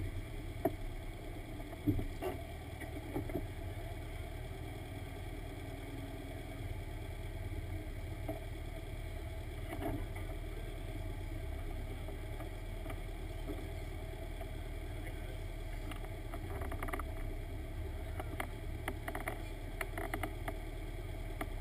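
1986 Toyota Corolla GTS (AE86) 1.8-litre stroker four-cylinder idling steadily while parked, with a few light knocks about two seconds in.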